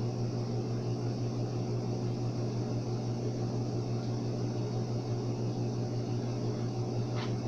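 Steady low hum under an even hiss, the constant background drone of the room, with a faint click near the end.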